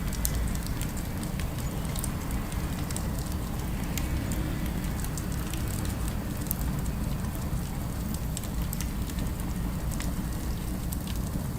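Fireplace crackling: scattered sharp pops and snaps over a steady low rumble of ambience.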